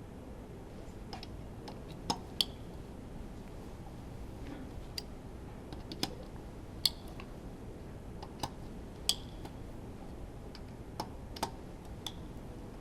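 Scattered sharp clicks and light clinks, about a dozen at uneven intervals, from tools and parts being handled during the teardown of a Honda V10 Formula 1 engine, over a steady low background hiss.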